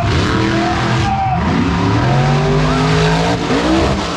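Monster truck engine revving hard, its pitch rising and falling in quick repeated surges over a steady loud drone.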